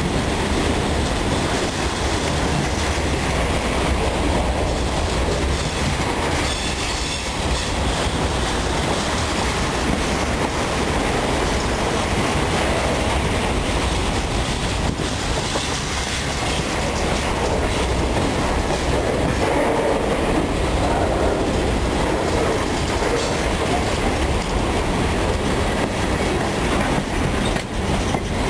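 Freight train of covered grain hopper cars rolling past steadily, the wheels clacking over the rail joints.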